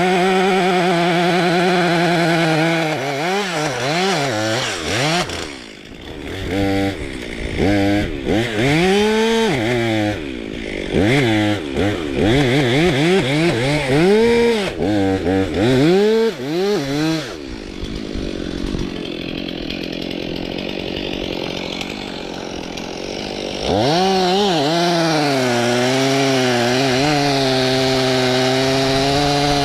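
Stihl MS 362 C two-stroke chainsaw cutting birch under load with a steady engine note. In the middle it is revved up and down in quick throttle bursts, then drops to a low, rough idle for several seconds. Near the end it goes back to a steady full-throttle cut.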